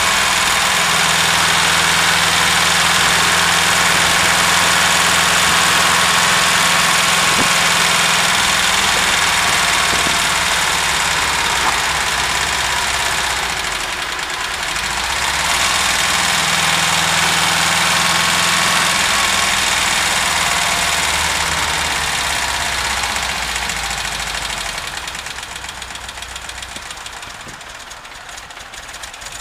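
VW Vanagon (T3) engine running with a knocking, ticking noise. The sound dips in loudness about halfway through and fades down over the last few seconds.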